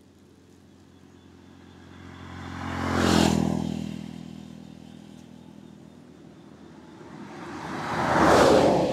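Two road vehicles passing close by. The first rises and fades about three seconds in, and the second swells to a peak near the end.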